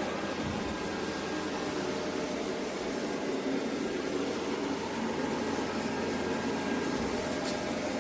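ECOVACS Deebot T50 Omni robot vacuum running with a steady motor noise.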